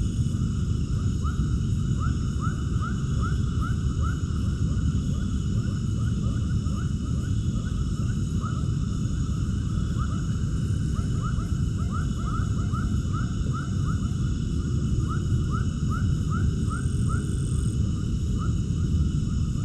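Runs of short, quickly repeated animal chirps, several a second, over a steady low rumble and faint constant high-pitched tones.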